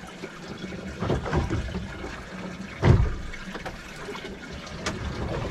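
Water splashing and sloshing with a few sharp knocks, the loudest about three seconds in.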